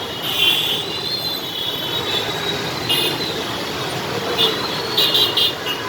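Steady hiss of rainfall mixed with street traffic noise. Short bursts of high-pitched squealing come about half a second in, about three seconds in, and several times near the end.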